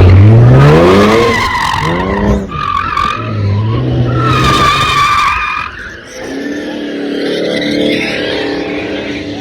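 A car doing donuts: the engine revs hard and rises in pitch over the first second or so, then holds high while the tires squeal against the pavement. The sound eases off a little after about six seconds.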